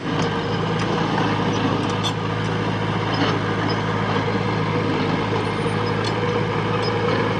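Diesel engine of heavy earthmoving machinery running steadily at constant speed, with scattered light metallic clinks.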